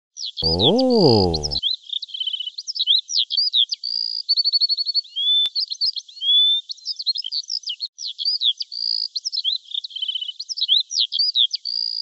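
Songbirds chirping and twittering without a break: rapid trills, short repeated notes and little rising whistles. About half a second in, a brief voiced "oh" swoops up and back down in pitch.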